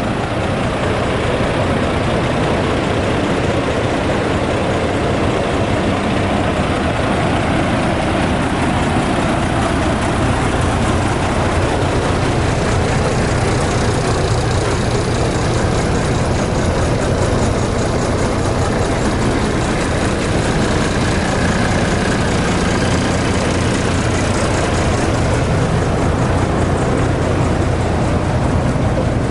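MAN TGX 35.560 truck's 12.4-litre straight-six diesel idling steadily, a deep even running note.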